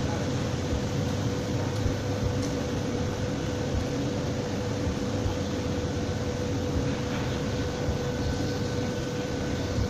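Steady hum and hiss, like a running fan or machine, holding one constant tone.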